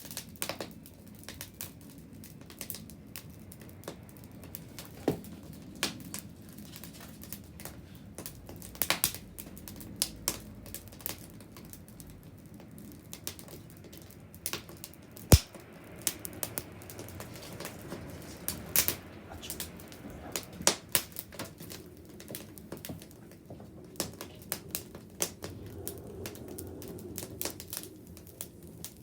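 Wood bonfire crackling, with irregular sharp cracks and pops over the low steady rumble of the flames; one loud pop comes about halfway through.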